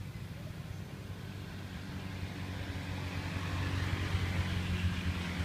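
A motor running with a steady low drone that grows louder through the second half.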